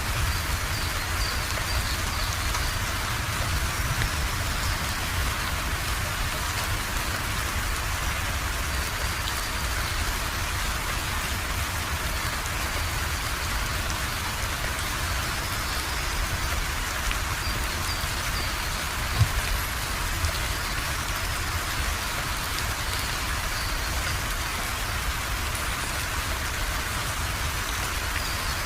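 Steady rain falling, with a low rumble underneath and one brief louder knock about two-thirds of the way through.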